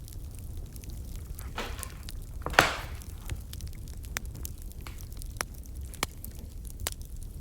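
Burning firewood crackling: scattered sharp pops over a low steady rumble, with one much louder pop and a short hiss about two and a half seconds in.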